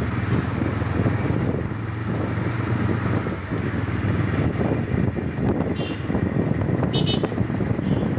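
TVS Raider 125's single-cylinder engine and exhaust running steadily on the move, with wind buffeting the microphone.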